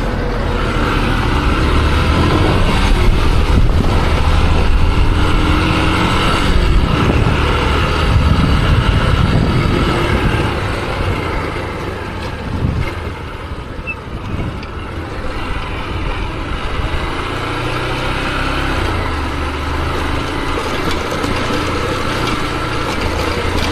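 Motorcycle running along the road, with a continuous low rumble and rushing noise. It eases off somewhat about halfway through, then steadies.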